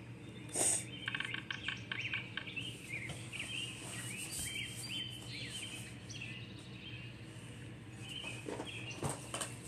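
Small birds chirping and calling in short, quick phrases of rising and falling notes, played back from a bird video that a cat is watching, over a steady low hum.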